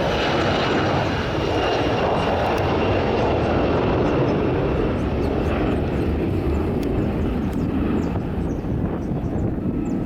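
Boeing 737-400 freighter's CFM56 jet engines at takeoff power: a loud, steady roar with a high fan whine in the first few seconds, the whine and upper hiss slowly fading as the jet climbs away.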